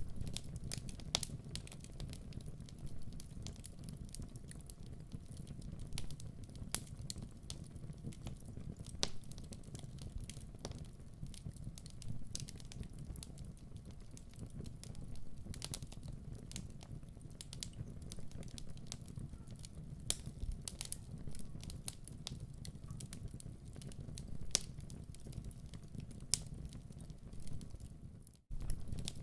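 Wood fire crackling in a fireplace: a steady low rumble of flames with irregular sharp pops and snaps, and a brief break in the sound about a second before the end.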